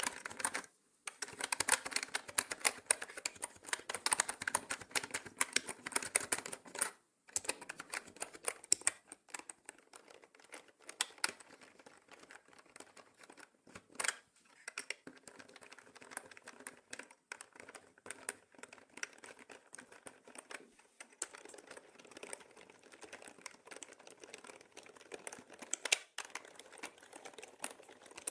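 Typing on a mechanical keyboard: a rapid, continuous clatter of key clicks, with short pauses about a second in and around seven seconds in, and softer typing from about nine seconds on. The sound is processed as 8D audio, panned around the listener.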